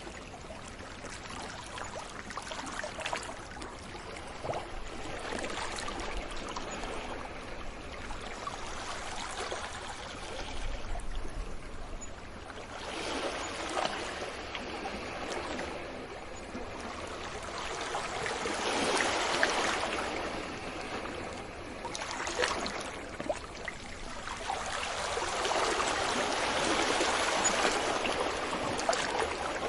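Sea waves breaking and washing up a beach: a steady hiss of surf that swells and eases in several slow surges, loudest about two thirds of the way through and again near the end.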